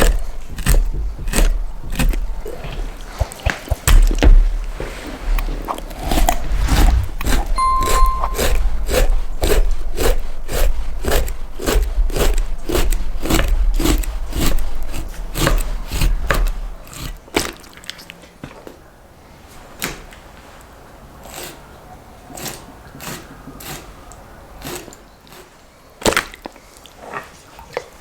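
A steady series of sharp knocks on wood, about two a second, from food preparation. A low rumble sits under them until a little past halfway, when it stops and the knocks go on more quietly.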